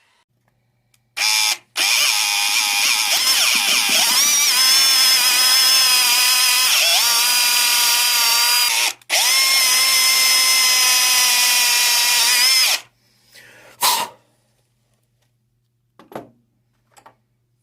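Small electric motor whining in bursts: a brief start about a second in, a run of about seven seconds whose pitch dips twice as if loaded, a short stop, then nearly four seconds more. A few faint clicks follow near the end.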